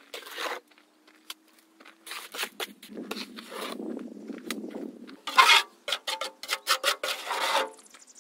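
Rough scraping and rubbing, then a loud scrape about five seconds in, followed by a quick run of sharp clicks and knocks.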